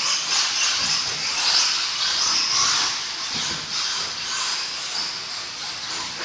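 Radio-controlled stadium trucks and truggies racing around a dirt track: a continuous high hiss of motors and tyres that swells and fades as the cars pass.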